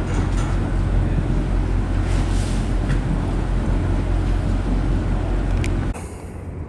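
Steady low drone of a car ferry's engines under way, with wind and water noise; the sound drops off abruptly to a quieter level near the end.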